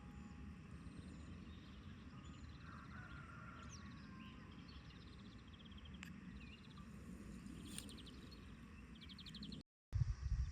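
Faint outdoor ambience: a low steady rumble with scattered bird chirps and a rapid trill about nine seconds in. Near the end the sound cuts out for a moment and returns with a louder low rumble.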